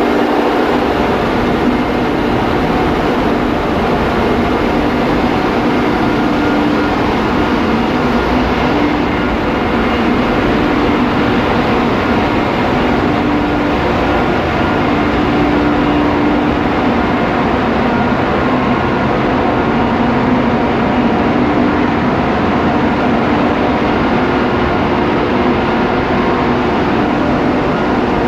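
Ship's engine room with its diesel machinery running: a loud, steady drone with a faint hum that swells and fades a little, and no breaks.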